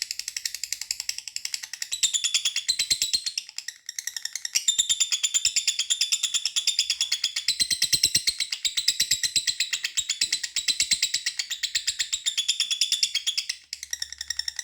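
Lovebird in long 'ngekek' song: a continuous, rapid, shrill chattering trill that breaks off briefly about four seconds in and again near the end. The bird is in full song after being conditioned ('tuned up').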